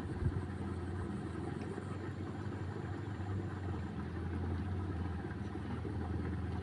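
A small engine running steadily at a low idle, with one short thump about a quarter second in.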